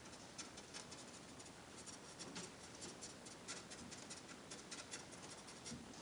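Faint, irregular scratching and light clicks of an applicator dauber brushing ABS cleaner or cement along a crack in an ABS plastic motorcycle fairing.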